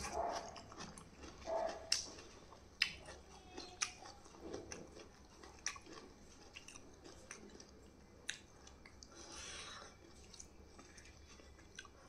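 A person chewing and biting food close to the microphone, with sharp crunches at uneven intervals and a longer soft rush about nine seconds in.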